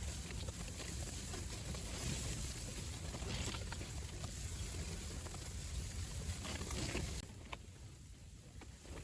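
Strong wind buffeting the microphone, a rough rumbling noise with a few faint ticks, easing noticeably about seven seconds in.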